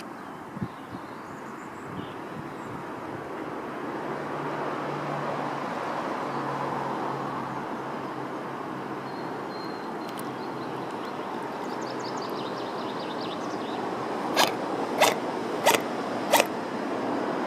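Steady background rumble of distant traffic, with a low engine hum for several seconds in the middle. Near the end come four sharp clicks, each less than a second apart.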